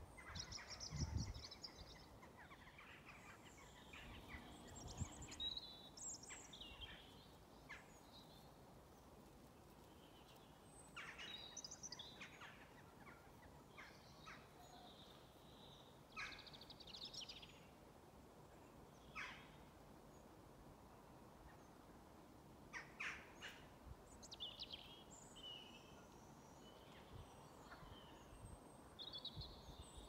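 Birds giving scattered short calls and chirps as they settle to roost at dusk, faint against a quiet background. A brief low rumble comes about a second in.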